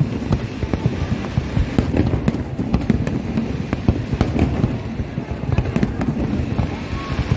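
Fireworks display going off: a dense, continuous rumble of bursts with many sharp bangs and crackles.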